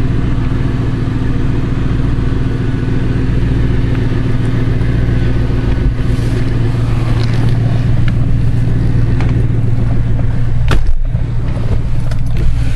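1999 Lincoln Town Car's 4.6-litre V8 idling steadily with a low, even hum, its exhaust leaking. A brief thump near the end.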